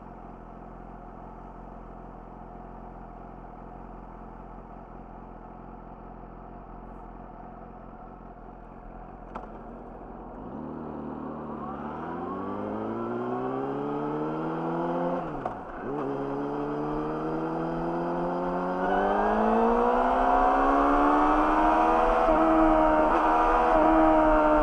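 Yamaha YZF-R6 inline-four with an Akrapovic slip-on exhaust idling steadily, then a click and the bike pulls away, the exhaust note climbing in pitch and loudness. A brief drop in revs comes about fifteen seconds in, like a gear change, before the note climbs again.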